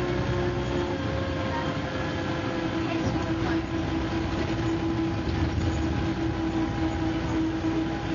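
MCW Metrobus double-decker bus running on the road, a steady engine and drivetrain rumble with a whine that drops slightly in pitch about a second in.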